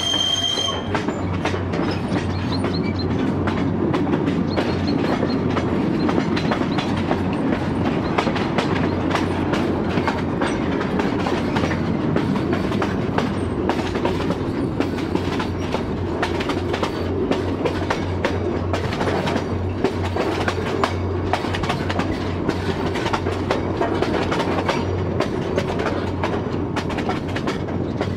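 Narrow-gauge electric train carriage running on the track, its wheels clicking and clattering over the rails with a low steady hum underneath. A high wheel squeal dies away right at the start.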